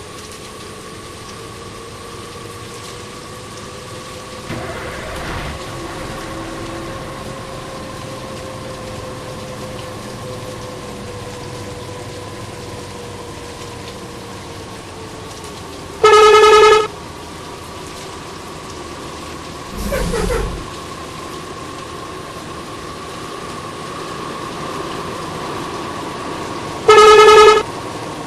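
Bus horn giving two loud, short blasts of one steady pitch, the first about halfway through and the second near the end, over a steady background of running vehicles.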